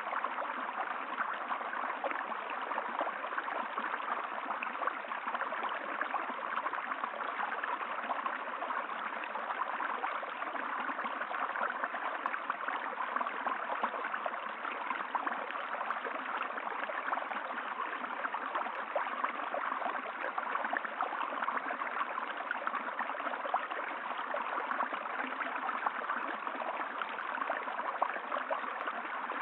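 Running water, a stream flowing steadily and evenly.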